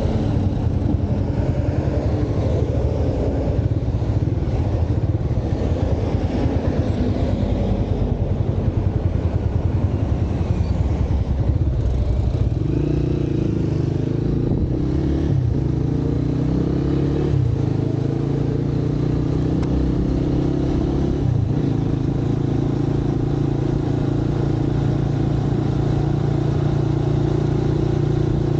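Motorcycle engine running on a city ride, with road and traffic noise. About a third of the way in, the engine settles into a steady hum, broken briefly twice.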